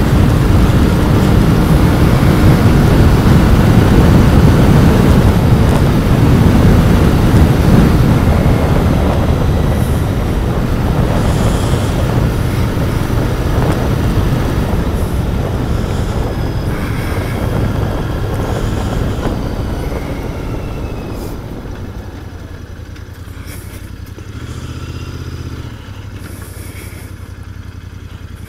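Royal Enfield Continental GT 650's parallel-twin engine through its stock exhaust, running hard under way for about twenty seconds. It then eases off as the bike slows, with two short throttle blips near the end.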